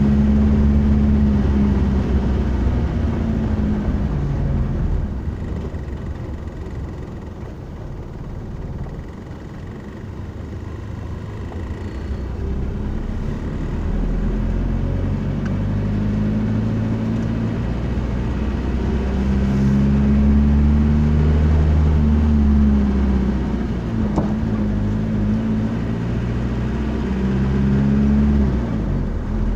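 A motor vehicle's engine running while driving, a low drone whose pitch steps up and down as it speeds up and changes gear. It goes quieter about five to ten seconds in, then picks up again.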